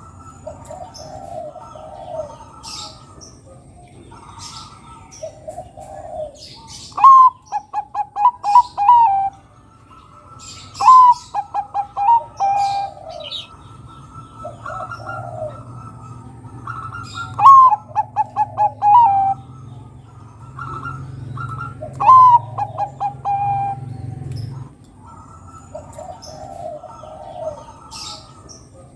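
Bangkok-type zebra dove (perkutut) cooing: four loud phrases, each a high opening note followed by a quick run of short coos and a longer closing note. Quieter cooing from other doves fills the gaps.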